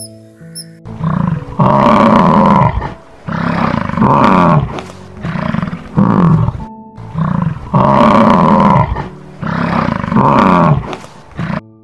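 An animal calling loudly in a repeated series, each call a weaker part followed by a stronger one, about every two seconds, over soft background music with sustained tones.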